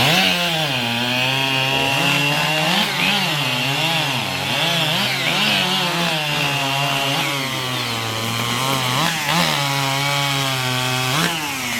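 Racing chainsaw cutting through a log in a timed race, its engine pitch dipping under load and picking back up again and again, then cutting off near the end.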